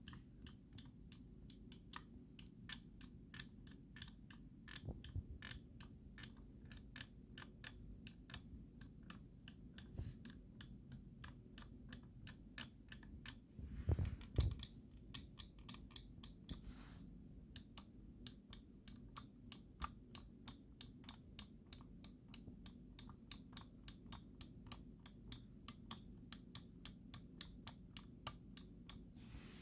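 Razer Viper Ultimate gaming mouse buttons clicked over and over, faint and sharp, about four clicks a second, with the creak of the mouse shell that the owner hears when clicking at certain spots. A louder knock of handling about halfway through.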